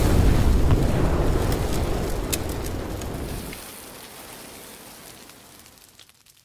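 Wood fire burning in a fireplace firebox, crackling with a few sharp pops over a low rumble, fading out to near silence.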